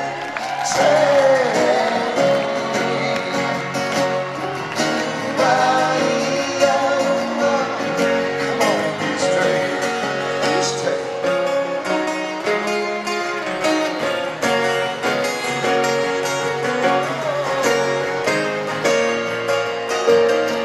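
Live band playing with guitar and singing, the voice rising and falling in long lines over the steady accompaniment.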